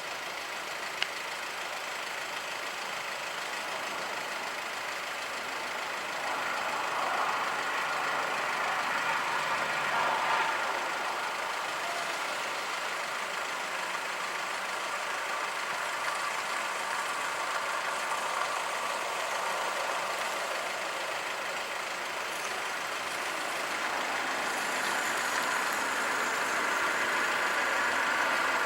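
Road traffic noise with engines running. It swells twice as vehicles pass, once several seconds in and again near the end. A single sharp click comes about a second in.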